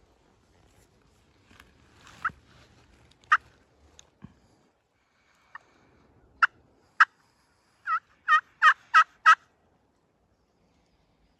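Turkey calling: a few scattered single clucks, then a run of five quick, evenly spaced hen yelps near the end.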